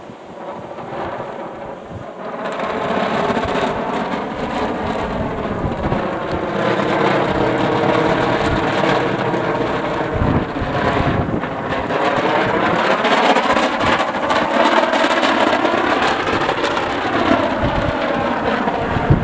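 A flying kite humming in strong wind: a steady drone whose pitch slowly wavers up and down with the gusts, getting louder after the first couple of seconds, over wind buffeting the microphone.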